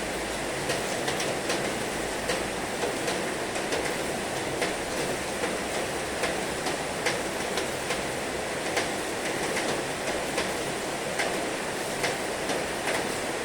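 Heavy rain falling steadily, with sharp ticks of individual drops striking a surface at irregular moments, roughly one or two a second.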